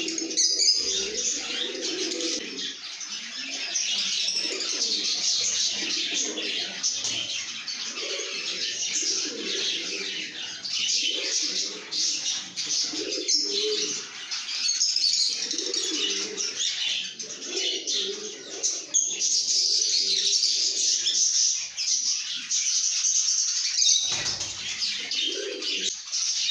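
A flock of lovebirds chattering and chirping without pause, a dense mass of high, busy calls, with a lower call repeating about once a second underneath.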